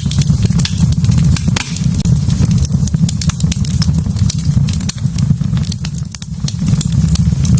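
Wood fire burning in a fireplace: many sharp, irregular crackles and pops from the logs over a steady low rumble of flame.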